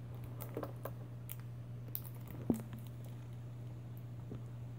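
Light crinkling and scattered small clicks of a toy blind-bag package being handled and opened by hand, over a steady low hum.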